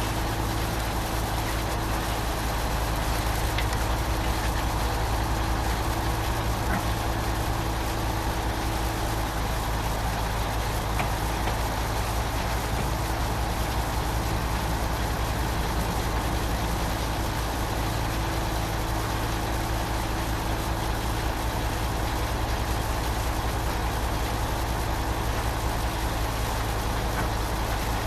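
Engine of a concrete boom pump truck running steadily, a constant low drone that does not change.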